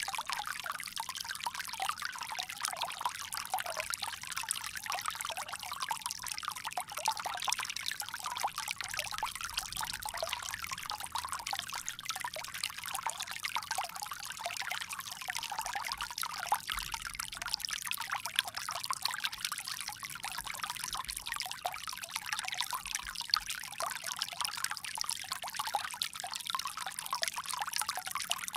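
Water pouring steadily from a bamboo spout, a continuous splashing trickle.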